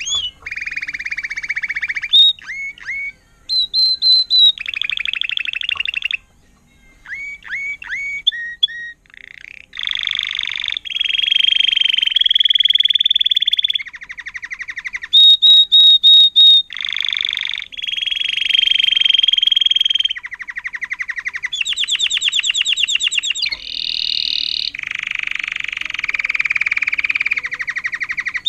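Domestic canary singing a tutored Timbrado-style song: a steady run of rapid trilled and rolling phrases, each a second or two long, switching pitch and speed from one phrase to the next, with a short pause about six seconds in.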